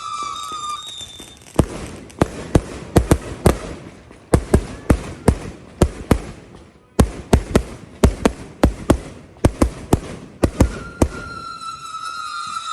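Consumer fireworks going off in quick succession: a long string of sharp bangs, several a second, with a brief lull about halfway through. A steady high wailing tone fades out in the first second and comes back near the end.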